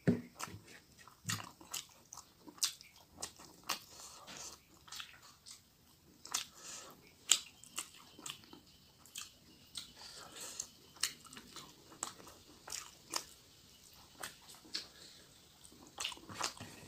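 Close-up chewing and wet lip-smacking of someone eating rice and fish curry with his hands: an irregular string of short, sharp mouth clicks.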